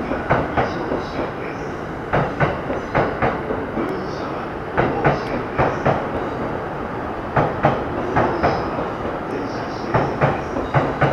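Train wheels clacking over rail joints in quick groups of clacks about every two to three seconds, over a steady running rumble.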